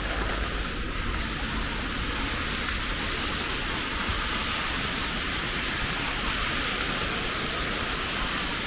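Steady rain falling: an even hiss of rain with a constant low rumble underneath.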